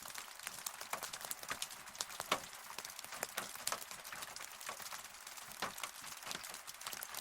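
Rain falling, with many close drops tapping at an irregular pace over a steady hiss.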